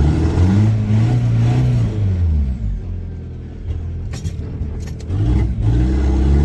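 Volkswagen Jetta TDI's diesel engine revving up and falling back as its tires spin on snow, easing off in the middle and revving again near the end.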